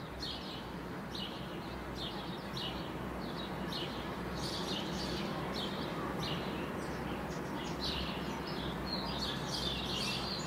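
Small birds chirping: short high calls repeating about once or twice a second, coming faster near the end, over a steady low background rumble.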